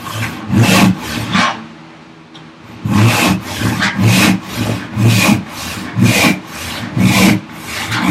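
Hand saw cutting through ash in steady back-and-forth strokes, about two a second, with a brief pause after the first few strokes.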